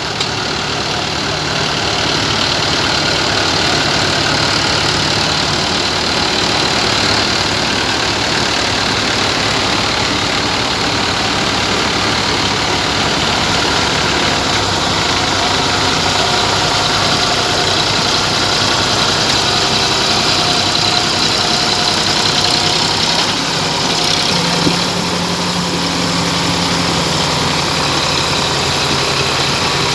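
Tractor diesel engines running steadily.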